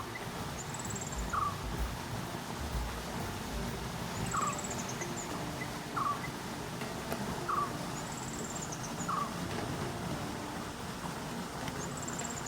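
Birds calling in the morning: a short rising note repeated every second or two and a high, thin trilled call every couple of seconds, over a low steady rumble.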